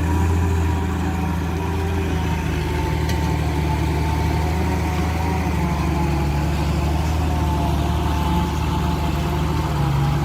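Heavy diesel engine of earthmoving machinery running steadily at an even, low speed, with a thin whine above the drone.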